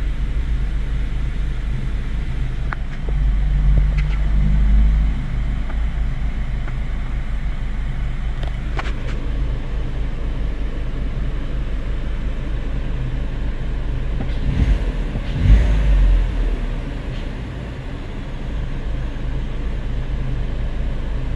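2017 Chevy Malibu's 1.5-litre turbocharged four-cylinder engine running with the car shaking, heard from inside the cabin, a low steady rumble that swells briefly about three seconds in and again around fifteen seconds. The shaking comes with oil pressure reading only about 10–13 psi, the engine oil pressure control solenoid valve fault behind code P06DE.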